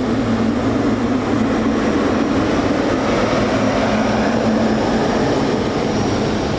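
Jet airliner engines running loud and steady: a dense rumble with a low hum underneath.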